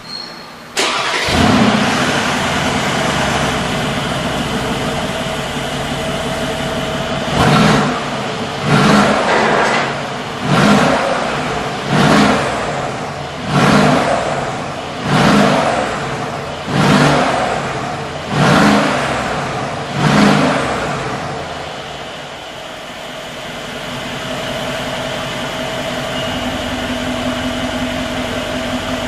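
Mercedes G63 Brabus twin-turbo V8 through its tuned exhaust: it catches about a second in and settles to a steady idle, then is blipped about ten times in a row, each a short rev about every second and a half, before dropping back to idle.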